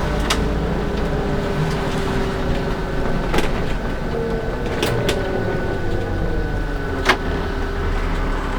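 Cabin noise of a LiAZ-5292.65 suburban bus under way: a steady low engine drone with a slowly rising and falling drivetrain whine. Several short knocks and rattles from the body are heard, the sharpest about seven seconds in.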